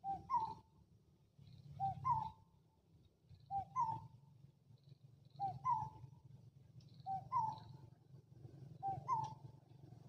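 A bird repeats a short two-note call, the second note higher and rising, six times at about 1.8-second intervals. A low steady rumble runs underneath.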